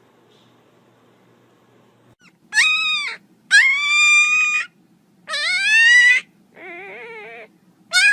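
An animal giving a series of five loud, drawn-out cries, starting about two and a half seconds in; the fourth is lower, quieter and wavering.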